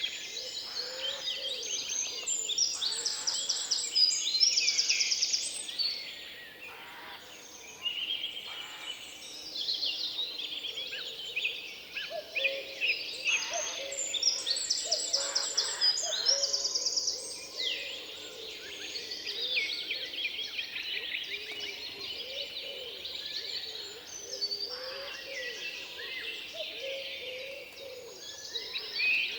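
Several woodland songbirds singing over one another, with fast trills and rapidly repeated notes, and softer lower calls beneath.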